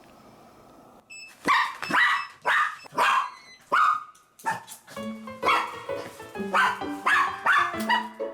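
Toy poodle barking repeatedly in short barks, about two a second, starting about a second and a half in. Background music comes in about halfway, with the barking carrying on over it.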